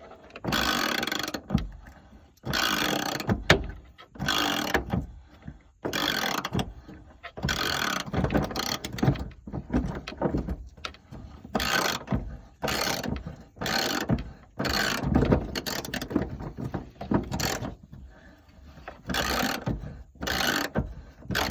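Hand ratchet with a deep-well socket and extension turning a fuel-tank strap hanger bolt in repeated strokes, about one a second, each stroke a burst of ratchet clicking.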